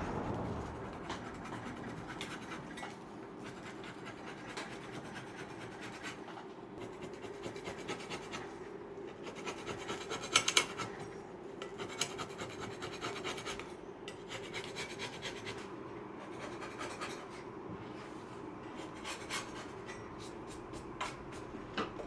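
Hand work on a wooden dining chair frame: rubbing and scraping with many small clicks, and a couple of sharp knocks about ten seconds in.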